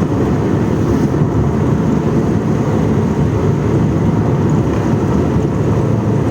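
Steady low rumble of a moving vehicle, engine and road noise running evenly with no distinct events.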